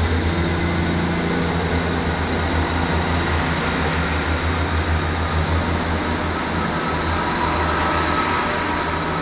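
Class 158 diesel multiple unit departing: its underfloor diesel engines make a steady low drone as it pulls away from the platform.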